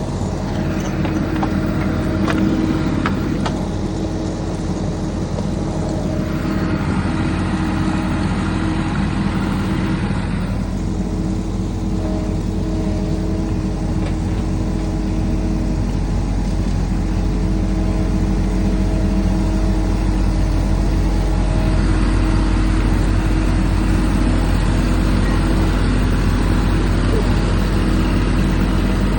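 Engine of a 1/8-scale ride-on model locomotive running steadily under way, its note shifting a few times.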